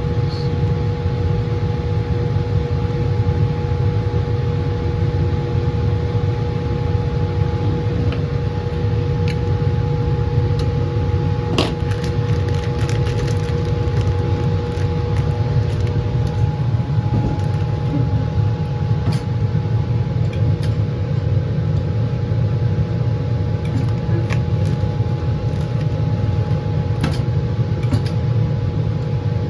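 Laminar flow hood blower running steadily, a low roaring rush with a faint steady whine over it. A few light clicks and taps of handling come through now and then, the sharpest about twelve seconds in.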